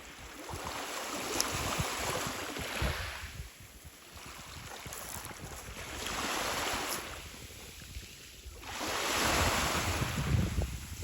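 Sea waves breaking and washing up the shore in three swells a few seconds apart, with wind buffeting the microphone.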